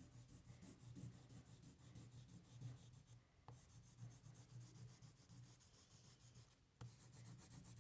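Faint scratchy rubbing of a violet oil pastel crayon colouring on paper in quick repeated strokes, over a low steady hum.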